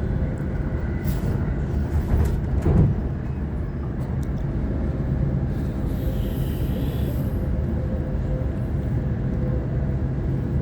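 Waratah electric train running: a steady low rumble of wheels on track with a faint steady motor tone, a few louder knocks about two to three seconds in, and a brief hiss around six seconds in.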